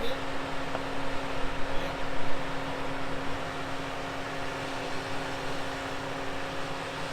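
Four-wheel-drive vehicle engine idling, a steady hum that holds the same pitch throughout.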